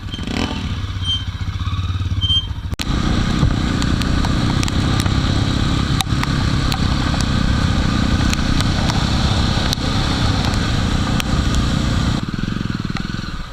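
A Jawa motorcycle's single-cylinder engine running. It grows louder and fuller about three seconds in as the bike pulls away, then eases back near the end. Scattered sharp ticks of rain striking the microphone sit over it.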